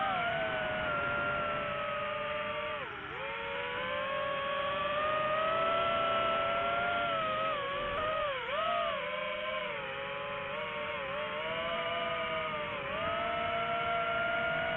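Quadcopter drone's motors and propellers whining, the pitch sliding up and down as the throttle changes, with sharp dips about three seconds in and again around eight to nine seconds.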